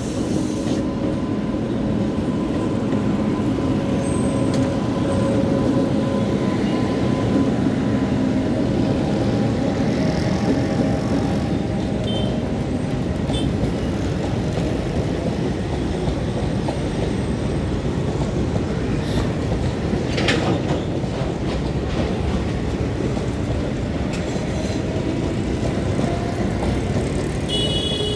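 Container freight train rolling slowly past: a steady rumble and clatter of wagon wheels on the rails, with the steady hum of the twin WAG-9HC electric locomotives fading away after the first ten seconds or so. One sharp metallic clank comes about twenty seconds in.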